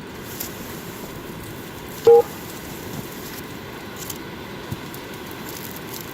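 Steady low rumble of wind, with a few faint crackles and one brief, loud squeak about two seconds in.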